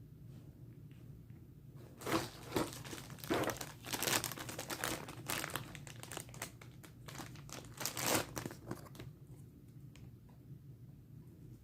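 Figure packaging being handled and unwrapped by hand: plastic crinkling and rustling in a run of bursts from about two seconds in until near the end.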